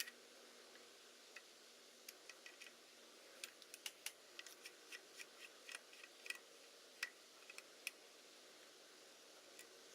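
Irregular light clicks and ticks of small parts and tools being handled, over a faint steady hiss.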